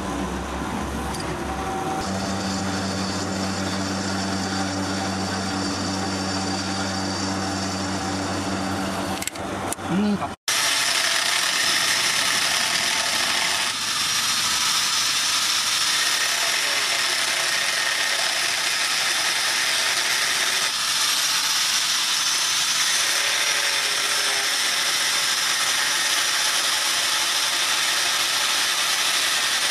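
Drill press running steadily as a twist drill bores through a steel knife blank made from disc plough steel. About ten seconds in this cuts off, and a hand-held angle grinder with a thin cutting disc takes over, cutting into the steel blade with a steady high-pitched noise.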